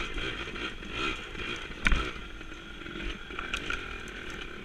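Small 100cc dirt bike engine running steadily under way, with wind rumbling on the microphone and a sharp knock about two seconds in.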